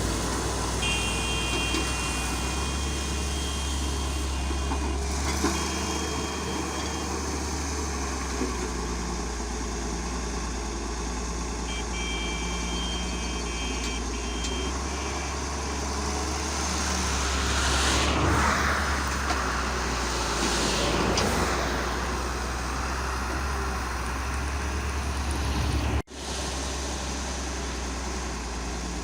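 Heavy diesel engine of construction machinery running steadily. A high, beeping tone sounds twice for a few seconds each, like a reversing alarm, and two swells of rushing noise come past the middle.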